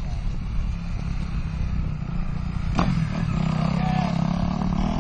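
Motocross motorcycle engine running steadily, with a single sharp knock a little past halfway.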